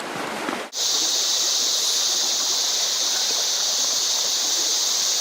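A steady high-pitched hiss that starts abruptly just under a second in and holds level without change.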